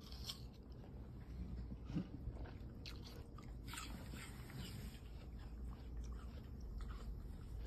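Faint crunchy chewing of fresh fruit slices, a few scattered crisp bites.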